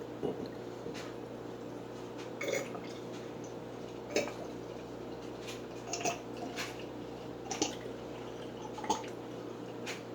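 Baby oil being poured from its bottle into a jar: scattered drips and glugs at uneven intervals over a steady low hum.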